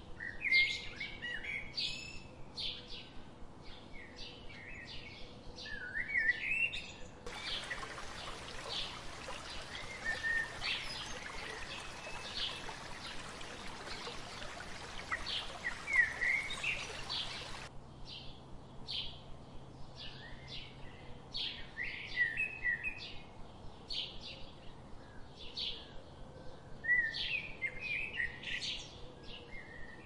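Many small birds chirping and twittering in quick, overlapping calls. About seven seconds in, a steady rushing hiss cuts in abruptly and stops just as abruptly about ten seconds later, while the birds carry on.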